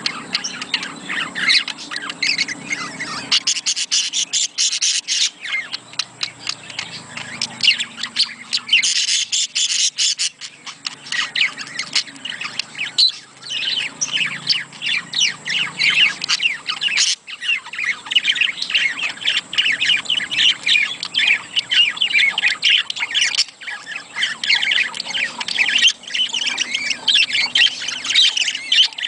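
Budgerigars chattering and squawking in a dense, unbroken stream of rapid chirps. This is the kind of budgie chatter played to encourage budgies to breed.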